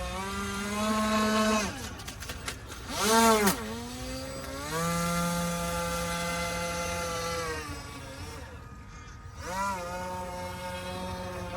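Electric motor of a radio-controlled model boat whining under throttle, its pitch holding steady, dropping off, then surging up and back down. A short sharp burst of throttle about three seconds in is the loudest moment, and a longer steady run follows before it eases and picks up again near the end.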